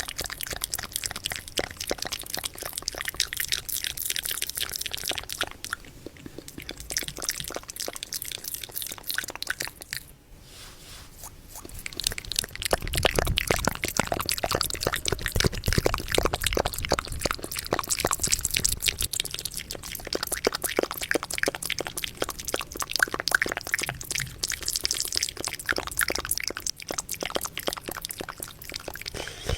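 Fast, dense wet mouth clicks and smacks made close to a microphone as ASMR mouth sounds, easing off briefly about ten seconds in, then coming back heavier and fuller.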